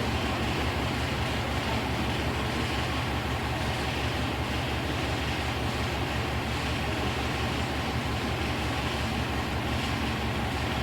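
Train running, a continuous rumble of steady noise with a fast, even low flutter throughout.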